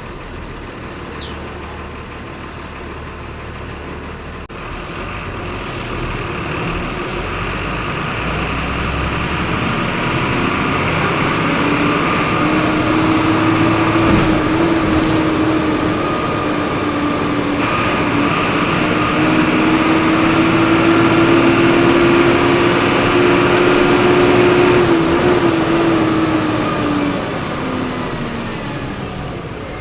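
Volkswagen 17.230 EOD city bus engine heard from inside the bus, running under way. Its pitch climbs slowly and it grows louder for most of the stretch, then eases off and quietens near the end.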